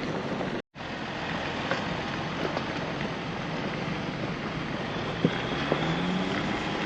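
Jeep driving on a rough dirt trail: steady engine and tyre rumble with a few faint knocks. The sound cuts out completely for a moment under a second in.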